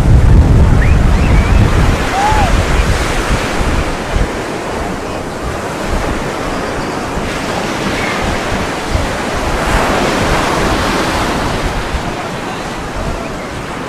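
Ocean surf washing onto the beach, with a louder wave surging about ten seconds in. Wind buffets the microphone at the start, fading after about two seconds.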